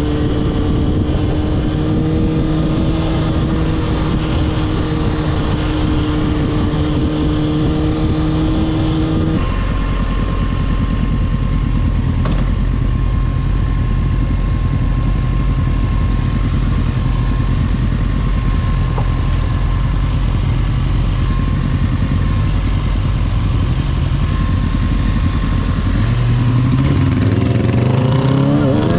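Motorcycle engine running steadily under way, its tone changing suddenly about nine seconds in. Near the end it revs up, rising in pitch as it accelerates.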